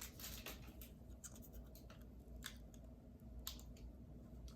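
Faint, scattered crackles and ticks from a fortune cookie being handled and opened in its crinkly plastic wrapper.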